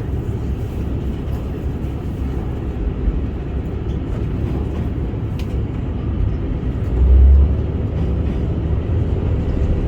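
Aizu Railway diesel railcar AT-751 running along the line as a steady low rumble. A brief louder low thump comes about seven seconds in.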